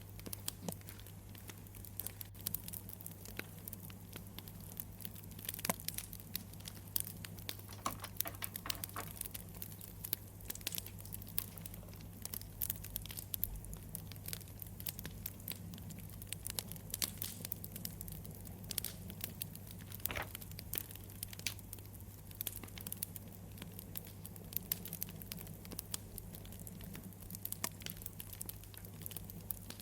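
Campfire crackling, a steady stream of irregular sharp pops and snaps over a low steady hum.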